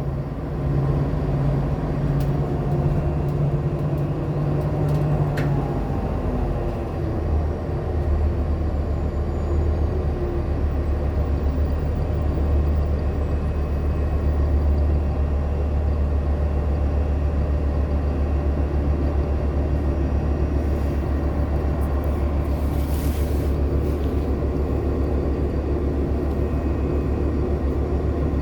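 Inside a Nova LFSA hybrid-electric transit bus under way: the Cummins ISL9 diesel and Allison hybrid drivetrain give a steady low drone that shifts down in pitch about six seconds in and then holds. A brief hiss comes about two-thirds of the way through.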